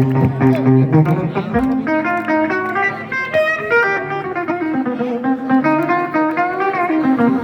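Live rockabilly band playing, with guitar picking a melody line out front and no singing.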